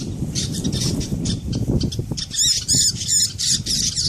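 A bird squawking repeatedly in short, sharp, high calls, the distress cries of a bird caught by a dog, over a steady low rumbling noise.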